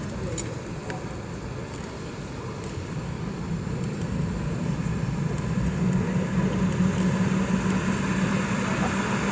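Cabin noise of a Boeing 717 with its Rolls-Royce BR715 turbofans running: a steady rumble with a low hum that grows louder from about three seconds in.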